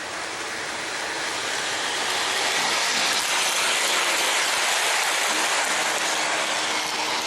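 Electric model train running on its track past the microphone, its wheels clattering and its motor humming as a steady rush. The sound grows louder to a peak around the middle and eases off near the end as the train goes by.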